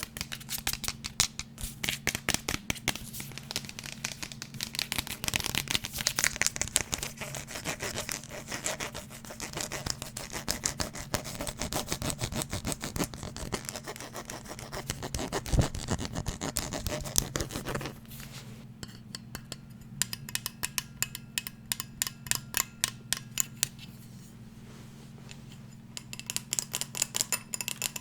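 Fast scratching and tapping on a hard object, in dense, rapid strokes. About eighteen seconds in it drops to lighter, quicker ticking, and louder taps come back near the end.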